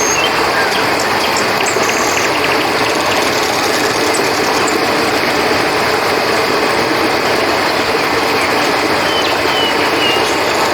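River water flowing steadily, with a continuous high chorus of crickets over it and a few short high chirps.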